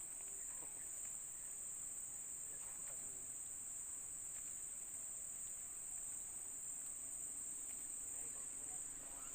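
Steady, high-pitched insect chorus, an unbroken shrill drone over faint rural background.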